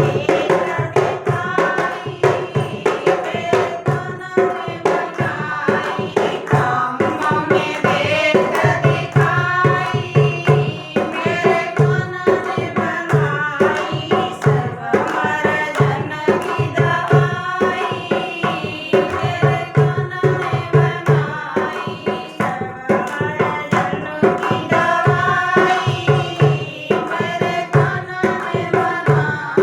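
A Hindi devotional bhajan: a woman singing over steady, rhythmic hand-drum playing with a repeating low drum beat.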